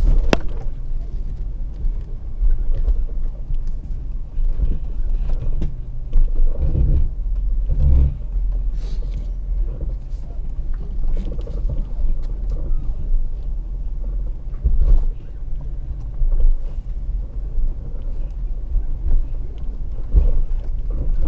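Jeep WJ Grand Cherokee crawling down a stepped section of an off-road trail: a steady low engine and drivetrain rumble, with scattered knocks and clunks as it drops over the steps, the biggest about seven to eight seconds in.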